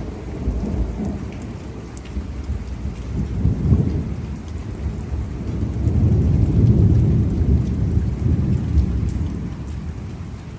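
Thunder rumbling over steady rain, swelling about three and a half seconds in and again, louder, from about six to eight seconds in, with scattered sharp drop ticks through the rain.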